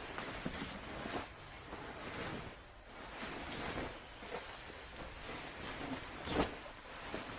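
Rustling and wind noise outdoors, with a few sharp clicks or knocks, the loudest about six seconds in.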